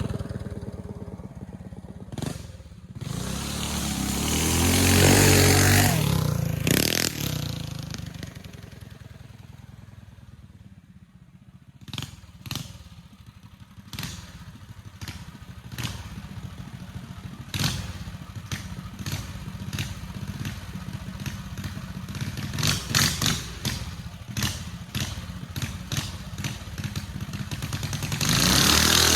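Single-cylinder Tillotson 212 mini bike engine, a Stage 4 build, revving up to a loud peak and then fading away until it is faint. It comes back loud near the end. Sharp clicks and knocks run through the quieter middle stretch.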